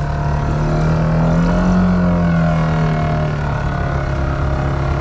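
Four-wheel-drive ATV engine revving under load while stuck in deep mud and water, its pitch climbing a little about one and a half seconds in and then easing back: the wheels are spinning without getting traction.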